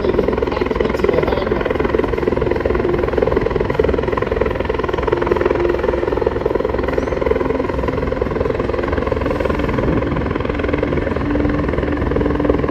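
RCAF CH-146 Griffon helicopter (twin-turboshaft Bell 412 type) flying overhead, its rotor and engines making a loud, steady noise with a constant hum.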